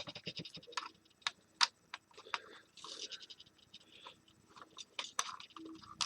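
Irregular light clicks, taps and scrapes of a space heater's plastic casing parts and screws being handled as the unit is taken apart.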